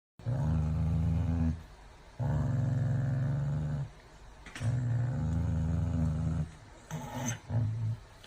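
An animal's low vocalisation, three long drawn-out calls of over a second each, then a few short ones near the end.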